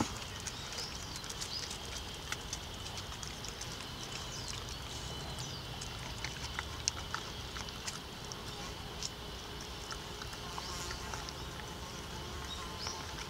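Steady insect drone with scattered small clicks and faint chirps.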